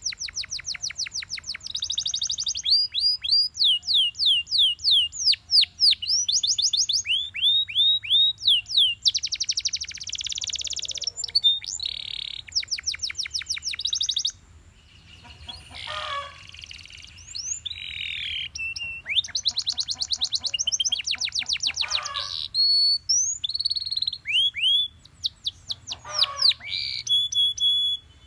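Canary singing a long song of fast, rolling runs of repeated whistled notes, each note sweeping down in pitch, in phrases broken by short pauses.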